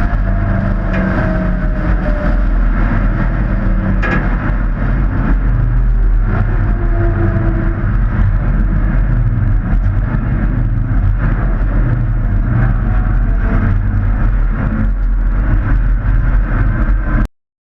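Hobby-class race trucks running on the speedway oval, their engines droning loudly with the pitch rising and falling. The sound cuts off suddenly near the end.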